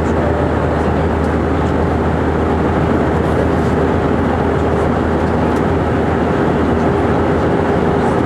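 Steady cabin noise inside an Airbus A319: twin jet engines and rushing air, with a constant low hum and a steady mid-pitched tone running underneath.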